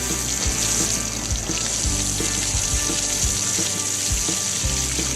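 Steady hissing, spray-like cartoon sound effect that cuts off near the end, over background music with a steady low beat.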